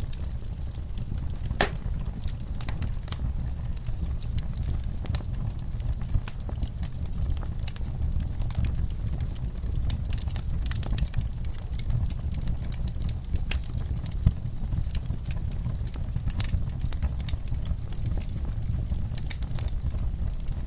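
Wood fire burning in a fireplace: a steady low rumble with frequent irregular crackles and pops, a few of them sharper and louder than the rest.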